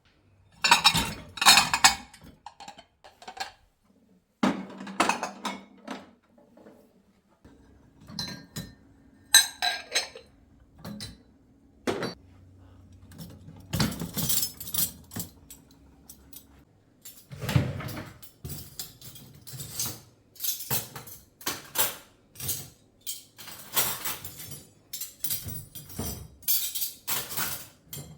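Dishes and cutlery clinking and knocking, in many separate clatters, with a steady low hum through the middle stretch.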